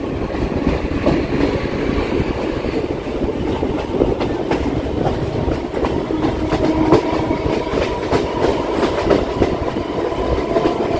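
Local passenger train running along the track: a steady rumble with frequent knocks of the wheels clattering over the rails. A faint steady tone comes in about halfway through.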